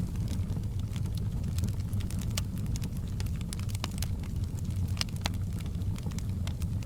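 Fireplace wood fire burning: a steady low rumble with many scattered sharp crackles and pops.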